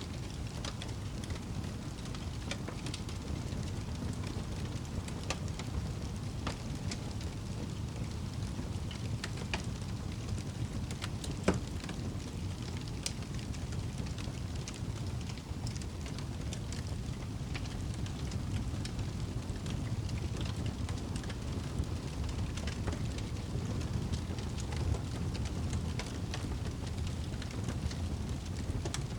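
Campfire crackling, with scattered small pops and snaps over a steady low rumble; one sharp, louder pop about eleven seconds in.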